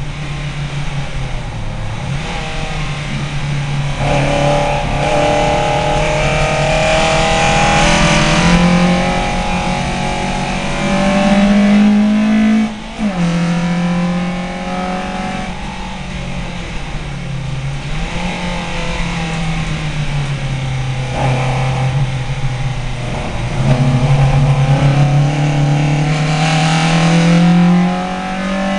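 VW Lupo race car's engine heard from inside the cabin, working hard through the gears: the pitch climbs steadily, drops sharply on a gear change about halfway through, and climbs again near the end before the driver lifts off. A constant hiss runs underneath.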